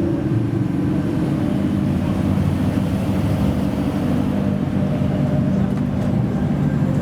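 Modified car's engine and exhaust running with a steady, loud low rumble.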